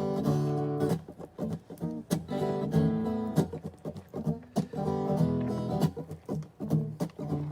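Acoustic guitar strummed in a steady rhythm of chords, an instrumental break in a song.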